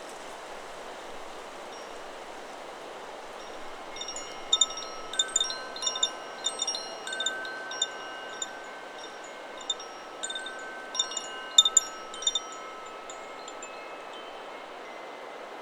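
A Chakra Chimes 'Solar Plexus' wind chime being struck irregularly by the wind, its tones ringing on and overlapping, from about four seconds in until near the end. Underneath is a steady rush of wind through trees, which is heard alone at the start and again after the chimes fall still.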